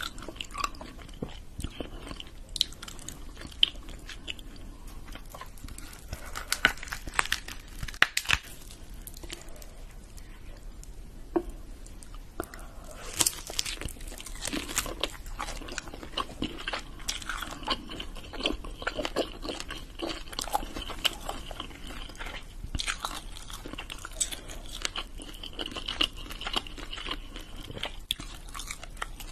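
Someone chewing and biting into lobster tail meat, with many short, sharp clicks and smacks scattered through the chewing.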